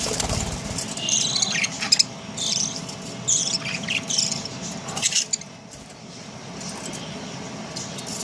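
Budgerigars chirping: a run of short, scratchy high chirps for about five seconds, then quieter.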